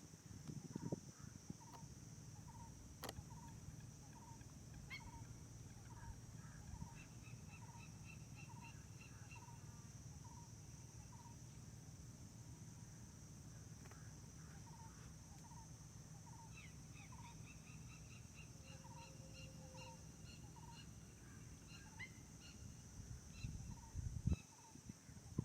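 Quiet outdoor ambience: a bird repeats a short note a bit more than once a second over a steady high hiss, with runs of faint higher chirps.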